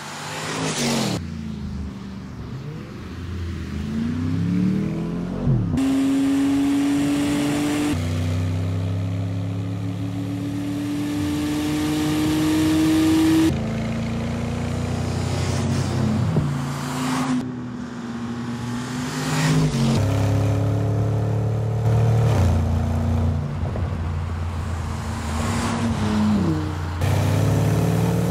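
Porsche Panamera engines accelerating, their pitch climbing steadily under load, in a series of edited driving shots. Cars sweep past with a falling pitch about five seconds in, about sixteen seconds in and near the end, and the engine sound changes abruptly at each cut.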